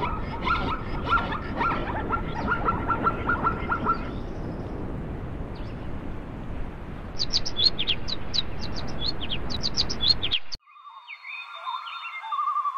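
Small birds chirping outdoors over a steady rushing background noise: first a run of quick, evenly repeated chirps, then a burst of rapid high chirps. About ten and a half seconds in the sound cuts abruptly to a quieter track of separate whistled bird calls.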